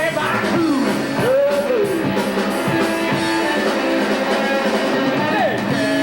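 Rock band playing live: electric guitar over bass and drums, with several notes sliding up and down in pitch.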